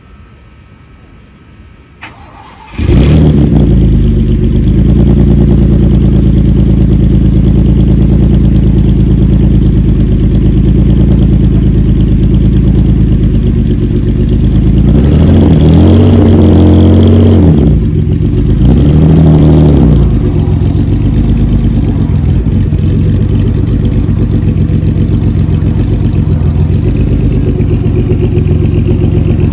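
Maserati Biturbo's twin-turbo V6 starting up about three seconds in, then idling steadily, with two brief revs about halfway through.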